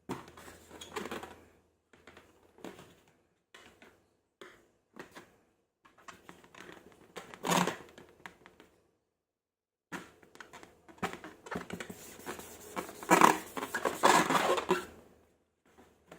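Close-up handling sounds of slime being made: irregular sticky crackles, taps and crinkles. They come in scattered bursts, with one loud burst about seven and a half seconds in and the busiest, loudest stretch in the last few seconds before the end.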